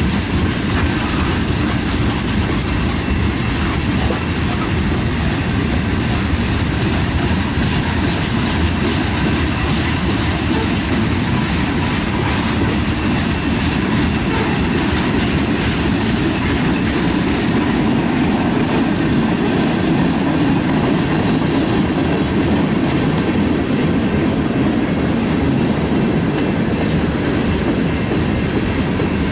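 Freight train's tank cars and covered hoppers rolling past: a steady rumble of steel wheels on rail with clickety-clack over the rail joints.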